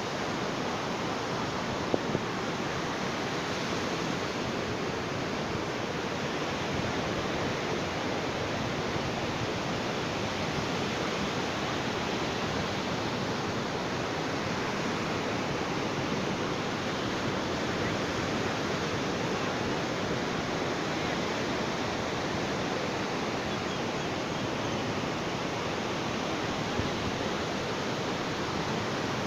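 Ocean surf as a steady, continuous wash of waves without distinct breaks. A brief tick sounds about two seconds in and another near the end.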